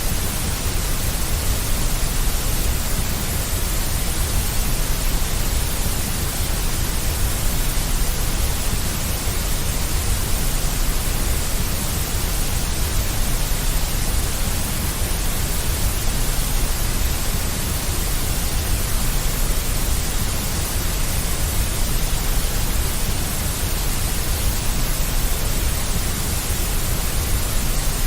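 Steady synthetic deep white noise, an even hiss with a strong low rumble underneath, unchanging throughout.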